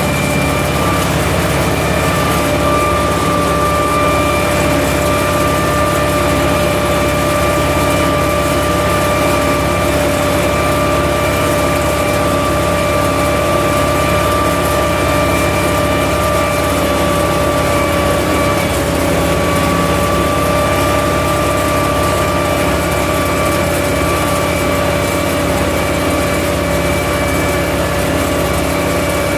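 Universal U650 tractor's diesel engine running steadily under load while pulling a plough, with a steady whine over the low engine rumble.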